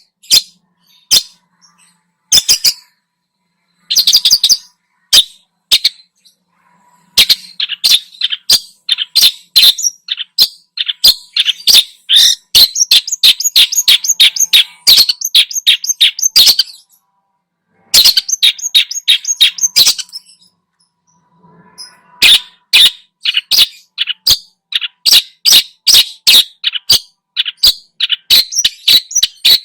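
Long-tailed shrike (cendet) singing a loud, varied song of rapid, sharp chattering notes full of mimicked phrases, broken by two short pauses, about six and twenty seconds in.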